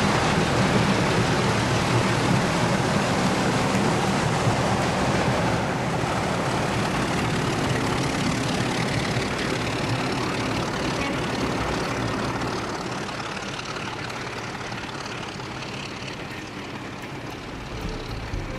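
Diesel locomotive engine running with a steady droning rumble that slowly fades toward the end.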